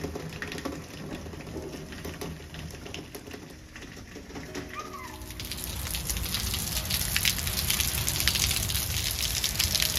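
Rain falling, quieter in the first half, then louder and denser from about halfway through, with many sharp drop hits. A short bird call sounds once near the middle.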